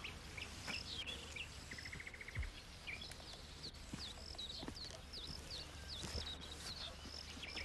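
Birds singing: scattered short high chirps, a quick trill about two seconds in, and a run of repeated sweeping notes through the second half, over faint outdoor background noise. A couple of faint low knocks.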